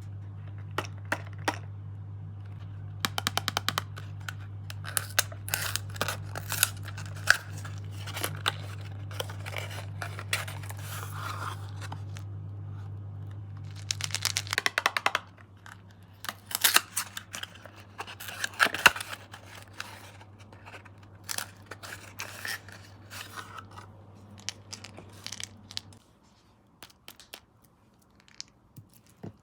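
Sweet packaging being handled: plastic wrappers and bags crinkling and tearing in irregular bursts, with small clicks and taps as sweets are set out. A low steady hum runs underneath and stops near the end.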